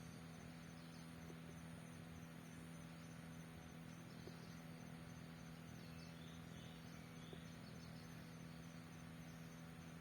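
Near silence, with faint insects chirring in a steady high buzz and a fast pulsing trill over a low steady hum.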